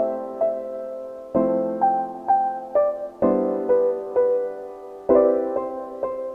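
Background piano music: slow, gentle chords struck about every two seconds, with single notes in between.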